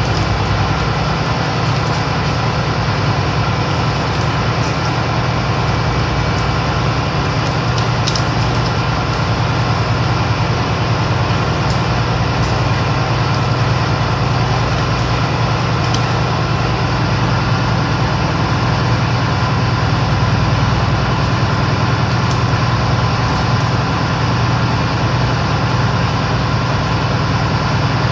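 Ship's machinery running with a steady, loud, low drone and a fixed hum of tones over it, unchanging throughout.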